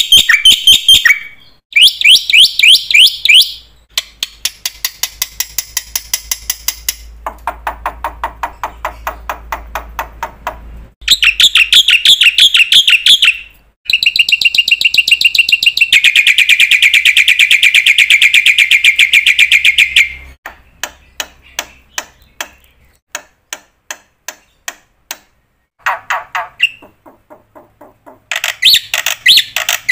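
Bird song in quick trills and chirps, sung in phrases of a few seconds each with short pauses between, each phrase a fast run of repeated notes at a different pitch.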